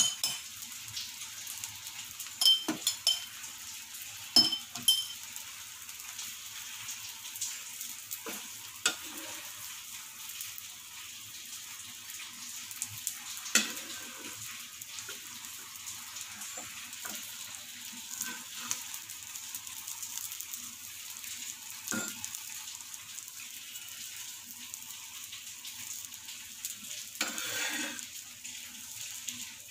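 Egg batter and oil sizzling steadily on a hot flat griddle as a bread omelette fries. A metal spatula clicks and scrapes against the pan now and then while the omelette's edges are folded over the bread, with a cluster of sharp clicks a few seconds in and a longer scrape near the end.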